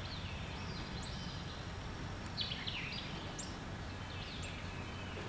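Birds calling in the open: a few short, falling whistled phrases, the loudest about two and a half seconds in, and brief high chirps, over a low, steady background rumble.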